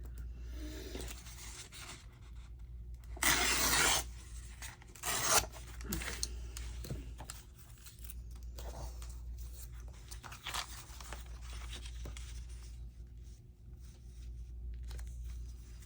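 Paper being worked by hand: a loud rasping stroke about three seconds in, a shorter one about two seconds later, then light rubbing and scraping of paper.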